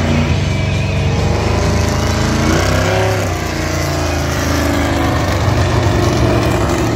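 Monster truck engine running hard under throttle, revving up and back down about halfway through.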